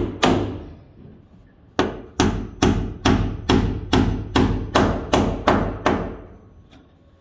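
Hammer driving a nail into wood. One blow, a pause of about a second and a half, then an even run of about eleven blows, a little over two a second, each ringing briefly. A faint tap comes near the end.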